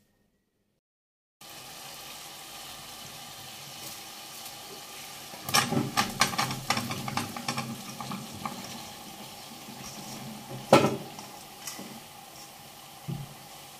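Chopped pumpkin tipped from a steel colander into hot oil in a kadhai: a steady sizzle, then a clatter of pieces landing about four seconds in with the frying growing louder, and one sharp knock a few seconds from the end.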